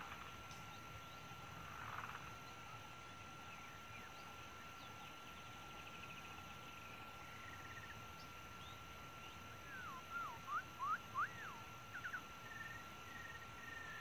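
Animal calls in the open: a steady high-pitched drone throughout, and from about ten seconds in a quick series of louder calls that swoop up and down in pitch.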